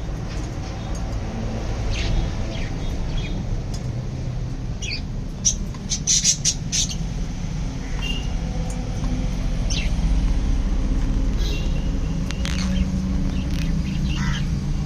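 Caged pet birds (budgies, lovebirds and parrots) chirping and squawking in short scattered calls, with a loud cluster of squawks about six seconds in, over a steady low rumble.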